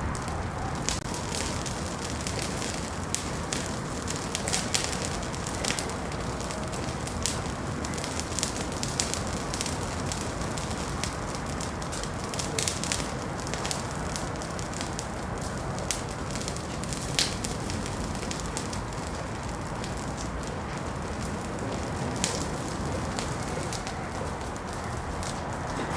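Wood fire burning in a fireplace: a steady low hiss with frequent sharp, irregular crackles and pops.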